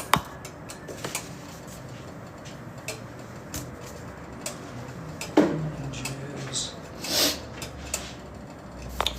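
Cutlery clinking against a dish while eating: scattered light clicks and taps, the loudest just after the start and about halfway through.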